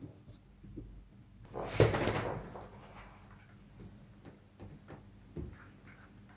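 Thin PVC sheet being handled: a loud rustling scrape about two seconds in, lasting about a second, among light taps and clicks.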